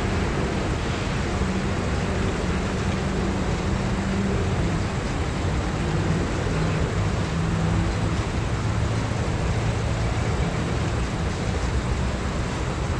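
Diesel locomotive engines running as a train approaches: a steady low drone whose pitch shifts a few times, under a continuous rumbling noise.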